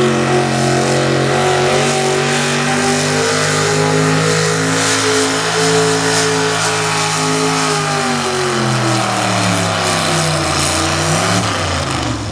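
A super stock two-wheel-drive pulling truck's engine held at high, steady revs while it pulls the sled. About eight seconds in the revs fall away, pick up briefly once, and drop off as the pull ends.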